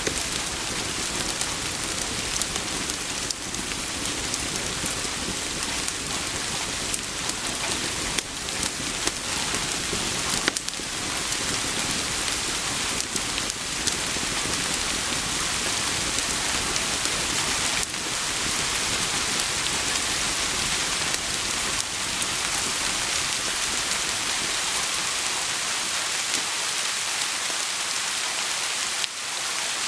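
Steady, heavy rain, a dense even hiss with scattered sharp ticks of drops striking close by.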